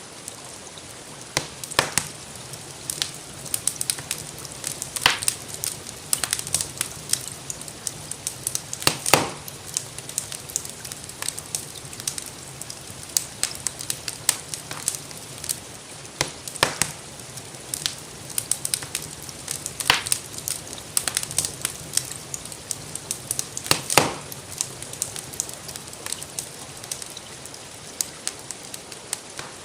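Wood fire crackling in a fireplace, with frequent sharp pops and a few louder snaps, over a steady hiss of gentle rain.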